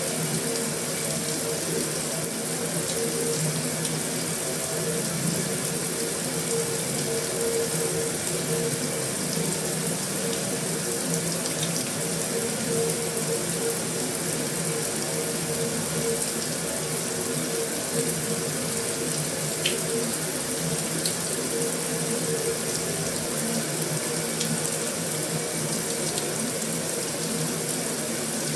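Heavy rain falling steadily on a metal roof: a dense, even hiss with a faint steady hum underneath and a few light ticks, one a little sharper about two-thirds of the way through.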